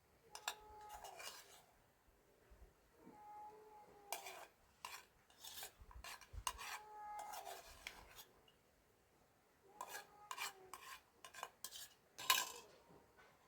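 Cats meowing several times amid clinks and scrapes of dishes and utensils, typical of food being readied for them.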